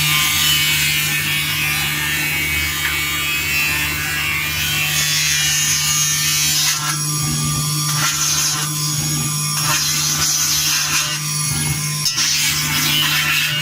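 CNC engraving machine's spindle running while the cutter engraves a silver plate: a steady low hum under a scratchy, hissing cutting noise that rises and falls.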